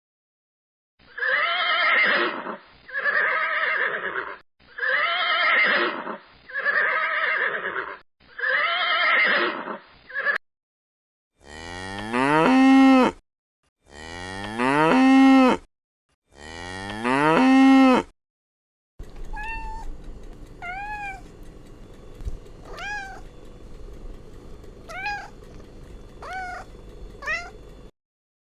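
Farm animal calls, edited one after another. First comes a run of six calls of about a second each, then three long calls rising in pitch, then short high falling peeps repeated over a steady hiss.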